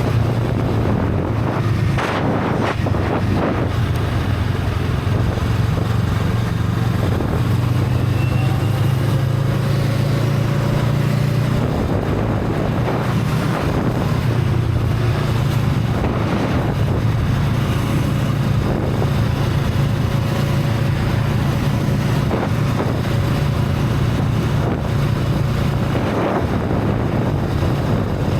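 Honda Rebel 500's parallel-twin engine with its stock exhaust running steadily while riding, with wind noise buffeting the microphone.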